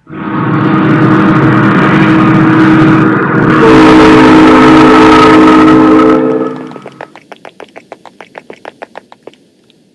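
A train horn sounding a held multi-tone chord over a rumble, changing to a different chord partway through, then cutting off. The clickety-clack of train wheels over rail joints follows, growing fainter until it dies away.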